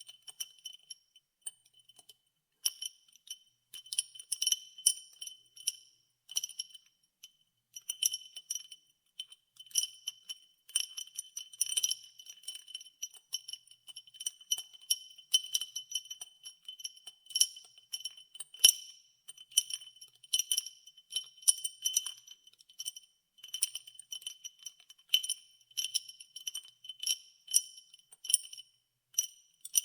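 Ice cubes clinking against a glass as iced water is stirred, in quick irregular clusters of short, high ringing clinks.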